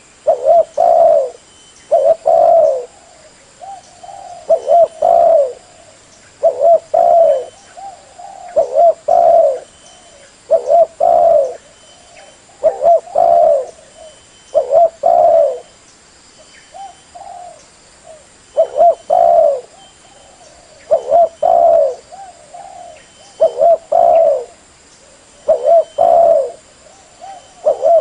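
Spotted dove cooing, its low call phrase of a few coos repeating about every two seconds.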